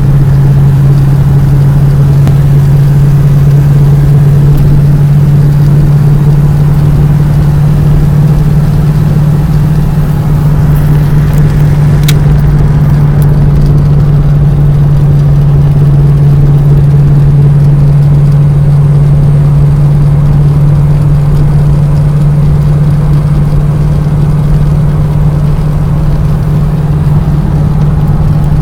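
A vehicle engine running at a steady speed, a constant low drone that never changes pitch, with a single sharp click about twelve seconds in.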